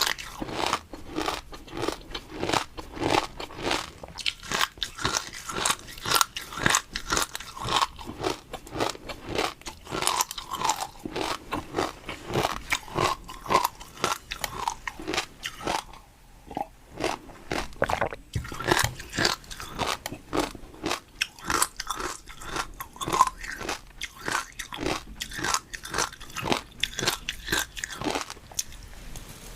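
Close-miked eating: rapid crunching and chewing of crisp food, with a short pause a little past halfway.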